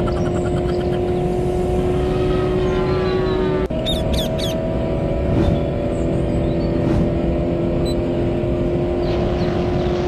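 Cartoon monster-truck engine sound effect: a steady, even engine hum, which drops out for an instant and resumes slightly higher near the middle, followed by a few short high chirps.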